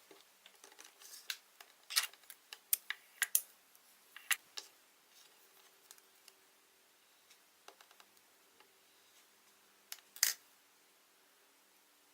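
Light, irregular clicks and taps of hands handling plastic Play-Doh tools and pieces, in a cluster from about one to four and a half seconds in and again around ten seconds in.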